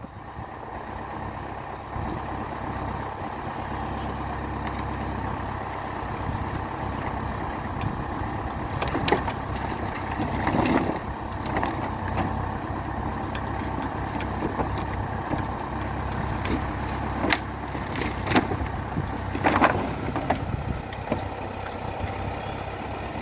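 Valmet 705 tractor's diesel engine running steadily under load, with several clunks and clatters partway through and again near the end.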